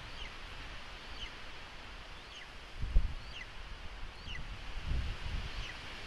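Thin, high bird calls, short falling notes repeated about once a second, over a steady rustle of wind in the trees. A couple of low bumps come about halfway through and near the end.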